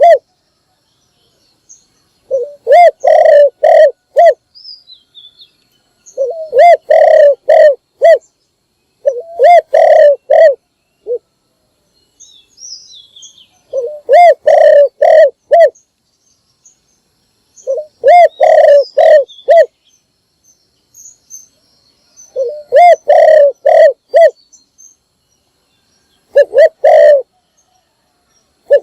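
Spotted dove (cu gáy) cooing: a loud phrase of several low coos, repeated about every four seconds, seven phrases in all. Faint high chirps of small birds come in some of the gaps.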